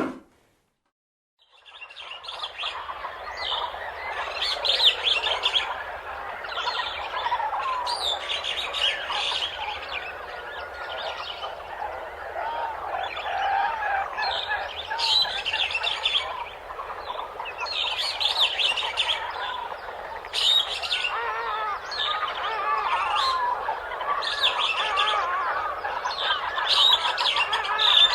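Many small birds chirping together in a dense, overlapping chorus that starts about two seconds in, with brighter high calls standing out every couple of seconds.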